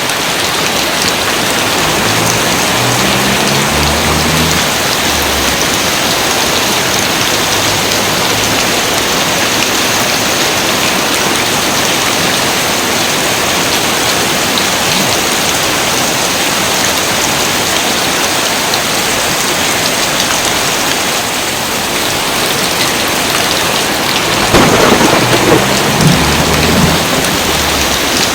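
Steady heavy rain with thunder rumbling low twice: faintly a couple of seconds in, and louder near the end.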